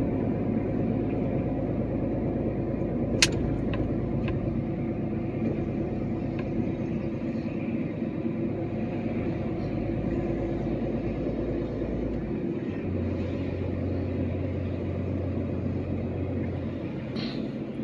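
A 40-ton truck's diesel engine runs steadily while driving, with a sharp click about three seconds in. The low engine tone shifts about two-thirds of the way through.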